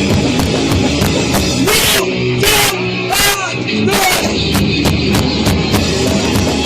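Live heavy rock band playing loud and fast, with pounding drums, crashing cymbals and distorted guitar, recorded with badly distorted sound.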